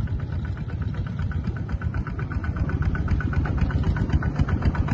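Small tractor engine running steadily, with a rapid, even pulse of firing strokes.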